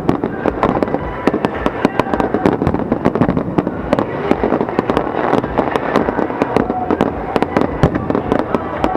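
Aerial fireworks going off in a dense barrage of bangs and crackles, many reports a second.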